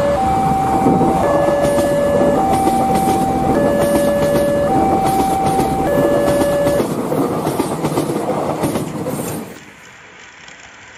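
A two-tone siren alternates between a high and a low note about once a second, over the rumble and quick rail-joint clicks of a passing train. The siren stops about seven seconds in, and the train noise fades away a couple of seconds later.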